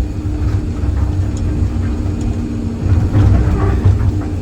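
Excavator's diesel engine running steadily: a continuous low rumble with a steady hum above it, and a few faint knocks.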